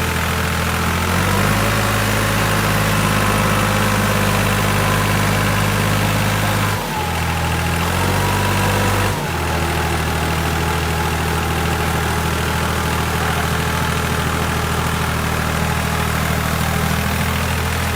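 Tractor engine running steadily. Its speed steps up about a second in, dips briefly around the middle, then settles back to a lower, even run.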